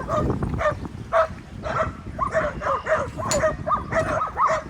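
Dogs barking and yipping in quick succession, several short high-pitched barks a second.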